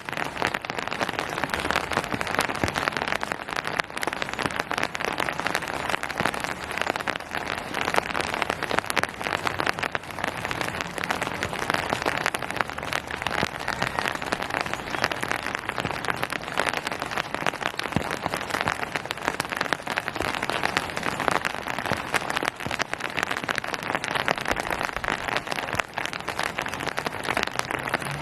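Steady rain falling on surfaces, a dense even patter of many close drop impacts.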